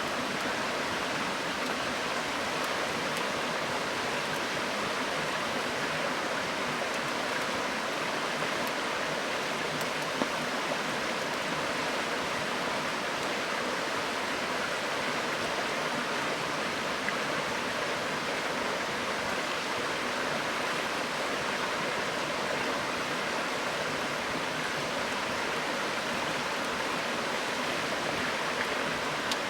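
Steady rushing of a river flowing, with a few faint crackles from a wood campfire, the clearest about ten seconds in.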